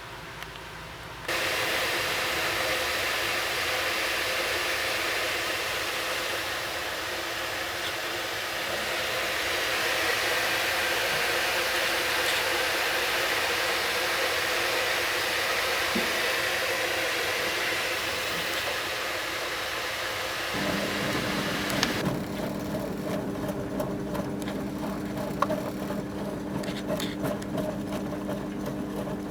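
1974 Zoppas Superautomatic 242 washing machine early in its wash: a steady rushing hiss of water filling the drum starts suddenly about a second in and cuts off about three-quarters of the way through. Just before it stops, the drum motor starts with a steady hum, and light clicks and knocks follow as the drum tumbles.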